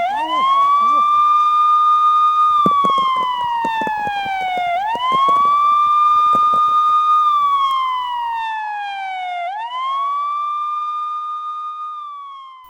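Police siren wailing: each cycle rises quickly, holds its pitch for about two seconds, then slides slowly down, repeating three times, about every five seconds. Scattered clattering knocks sound in the first half, and the siren fades out near the end.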